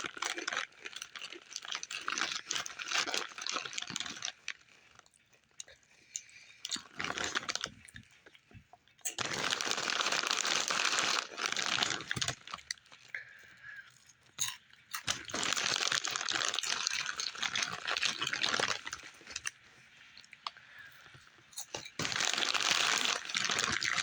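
Salt and vinegar potato chips crunched while chewing, close to the microphone, in several spells of a few seconds each with quieter pauses between.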